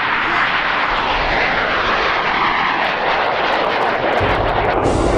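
Aero L-29 Delfín's single turbojet engine running at high power on the takeoff run, a loud jet noise with a whine that sweeps down and back up in pitch.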